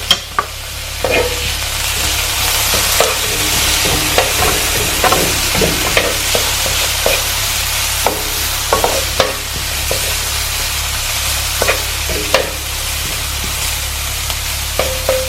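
Minced garlic and onions sizzling in hot oil in a pan, with a utensil stirring them and knocking against the pan every second or so.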